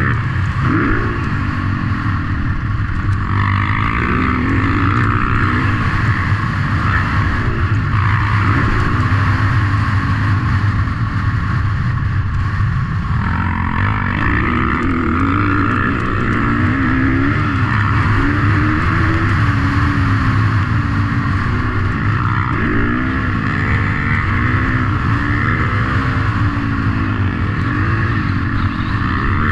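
Motocross motorcycle engines racing, their pitch rising and falling over and over as the throttle is opened and closed.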